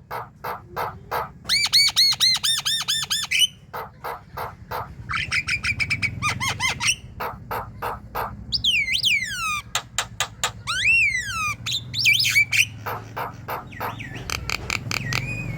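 Javan myna (jalak kebo) singing vigorously: fast runs of harsh clicking notes mixed with repeated arched chirps, and a few long gliding whistles about two thirds of the way through.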